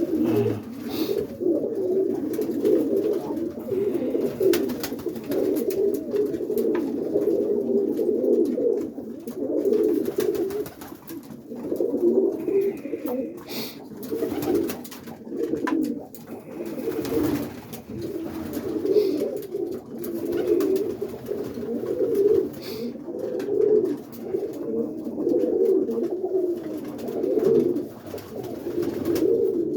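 A coop full of roller pigeons cooing, many overlapping coos running on without a break, with a few brief sharp clicks among them.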